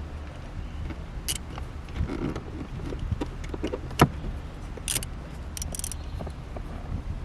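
Scattered metallic clicks and clinks of tools and shifter parts being handled, with one sharp knock about four seconds in, over a low steady hum.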